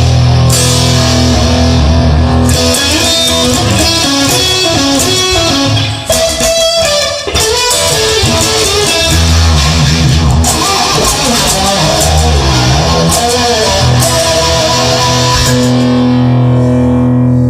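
Rock music played on electric guitar, with no singing. It drops away briefly about six seconds in, then carries on.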